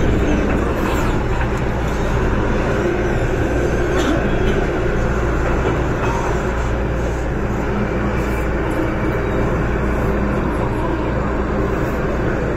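MTR Tsuen Wan line M-train (Metro-Cammell electric multiple unit) running at speed through the tunnel: a steady rumble of wheels on rails with a faint hum underneath.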